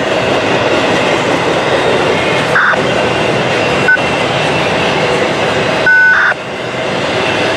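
Norfolk Southern intermodal container train rolling past, a loud steady rumble of wheels on rail. Short high-pitched squeals cut through twice, the louder one about six seconds in.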